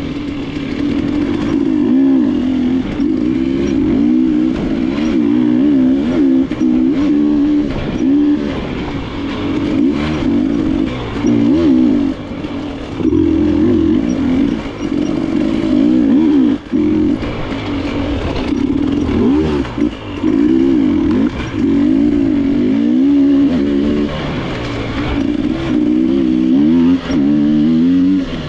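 KTM enduro motorcycle engine on a trail ride, its pitch constantly rising and falling as the throttle is worked, with brief throttle chops and scattered knocks and clatter from the bike.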